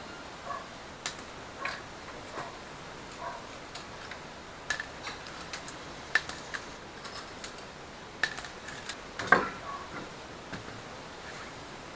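Metal hand tools clinking and clicking irregularly, about a dozen small knocks, with the loudest about nine seconds in.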